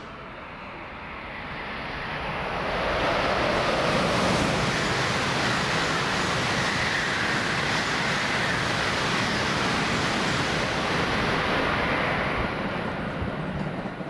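A 300 series Shinkansen train passing through a station at speed without stopping: a rushing roar that builds over the first few seconds, holds for about nine seconds, and eases off near the end.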